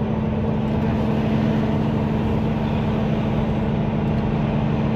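Semi truck's diesel engine running steadily while the rig creeps along at low speed, heard from inside the cab as a constant low hum.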